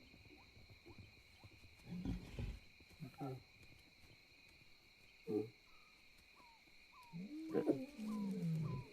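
Distant lions calling at night: a few short low calls, then a longer call near the end that rises and falls in pitch. A steady high insect-like drone runs underneath.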